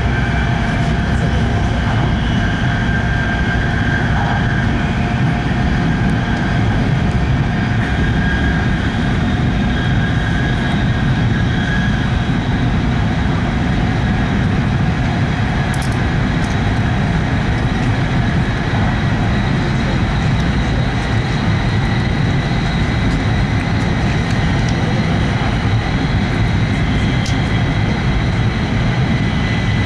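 Steady running noise heard inside an E5 series Shinkansen passenger car at speed: a dense low rumble with faint high whines over it, one of them rising slowly in the last several seconds.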